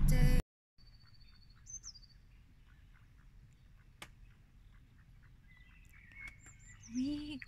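A loud stretch with a voice cuts off abruptly about half a second in. Then comes quiet lakeside ambience with faint songbird chirps and a short trill, and a brief low pitched call or voice near the end.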